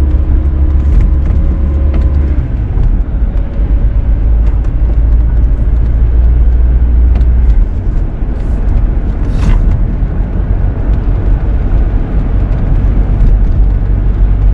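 Road and engine noise heard inside the cabin of a moving four-wheel-drive vehicle: a steady low rumble. A faint steady tone fades out about two seconds in.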